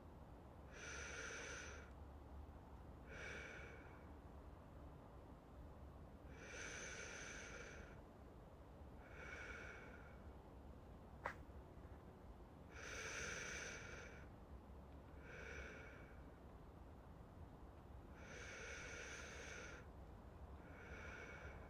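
A man's slow, deep breathing close to the microphone, in pairs of a longer breath and a shorter one about every six seconds, like someone drifting off to sleep. A single sharp click comes about eleven seconds in.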